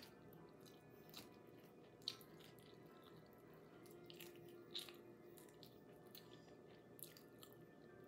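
Faint, close eating sounds: soft mouth clicks and chewing as barbecue chicken is bitten off the bone, with a few short smacks, the loudest about two seconds in.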